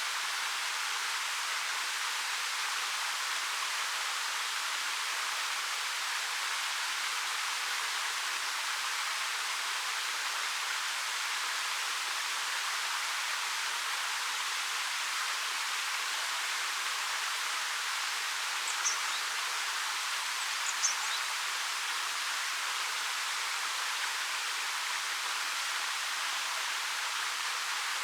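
Waterfall pouring down a 13 m rock face in a steady, hissing rush with little low rumble. Two brief high chirps, likely a small bird, come about two-thirds of the way through.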